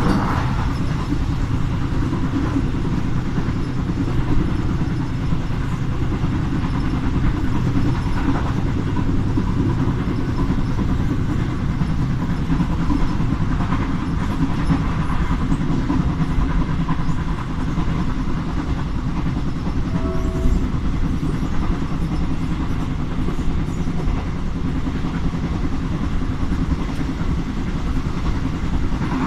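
Diesel-hauled passenger train running on the rails: a steady, continuous rumble of wheels and track, with a brief short tone about twenty seconds in.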